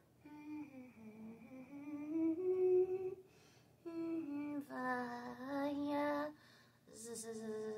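A woman's voice humming a wordless little tune: three short phrases of held notes that step and glide up and down, with brief pauses between them.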